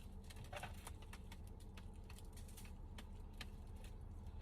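Scattered light clicks and taps from handling a takeout food container, over a low steady hum inside the car.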